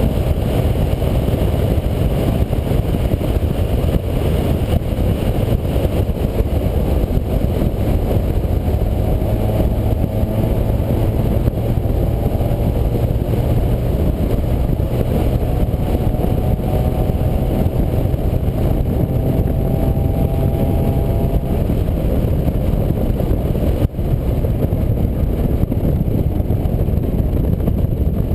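A moving vehicle heard through a GoPro's microphone: a loud, steady low rumble of wind and road noise swamps the sound, with a faint engine note rising slowly in pitch midway.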